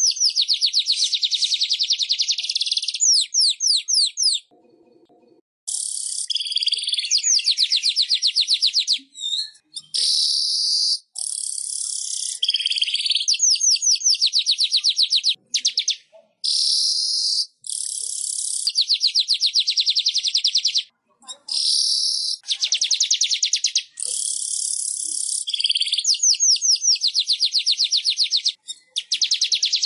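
Manyar (weaver bird) song: long runs of rapid, high-pitched chattering trills, each a few seconds long, broken by short pauses.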